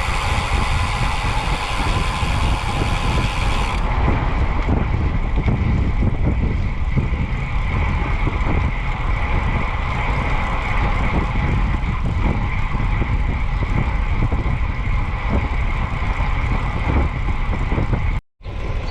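Wind buffeting the microphone of a cyclist riding along the road, a steady low rumble mixed with road and traffic noise. The sound cuts out for a moment near the end.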